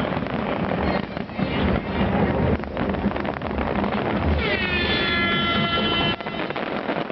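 Large fireworks display: a continuous rumble of bursts with dense crackling. About four seconds in, a high whistling tone slides down and then holds for under two seconds.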